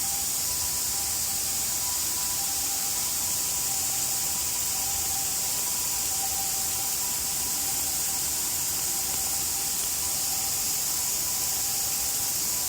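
Steady hiss of a heavy downpour, with two faint, steady high tones held beneath it.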